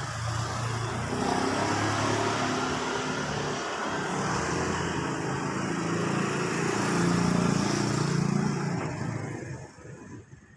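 A motor vehicle engine running close by, its hum shifting in pitch, then dying away near the end.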